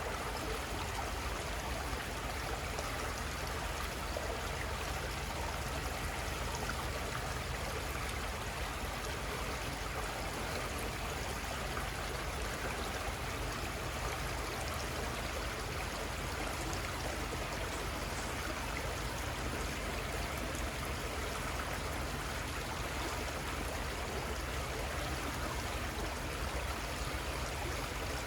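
Small river flowing steadily, a constant rushing and trickling of water over its bed.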